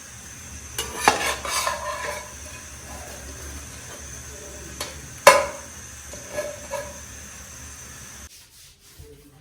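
Kitchen utensils stirring, scraping and clinking against dishware over a steady low hiss, with a sharp clink about five seconds in; the background hiss cuts off abruptly near the end.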